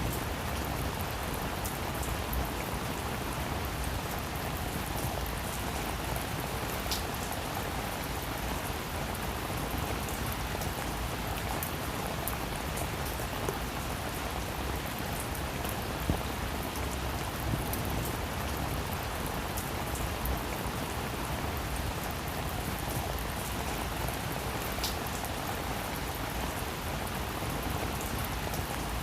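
Heavy rain falling steadily, an even hiss with scattered sharp drop impacts.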